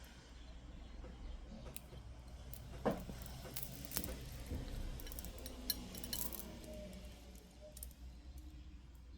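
Small black tourmaline and clear quartz beads clicking and clinking against each other now and then as a bracelet is restrung by hand, over a faint steady low hum.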